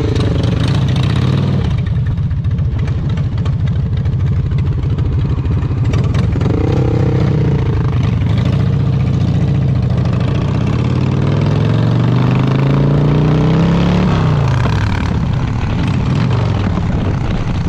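Harley-Davidson Dyna's V-twin engine running while riding, its pitch climbing steadily from about ten seconds in as the bike accelerates, then dropping back after about fourteen seconds.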